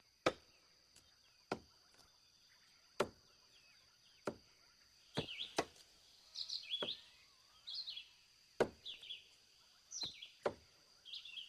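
Sharp, irregular knocks, a dozen or so spread unevenly, like blows on wood. Birds chirp between them in the second half, over a steady high-pitched hum.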